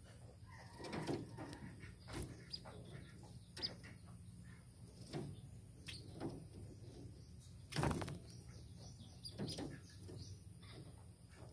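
Munias giving short, high chirps among scattered taps and knocks, the loudest a sharp knock about eight seconds in.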